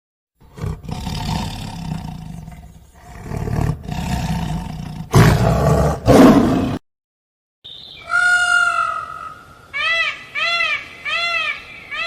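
A big cat growling and roaring in several rough calls over about six seconds. After a short pause a different animal gives one longer high call, then a run of short, high, arching calls about twice a second.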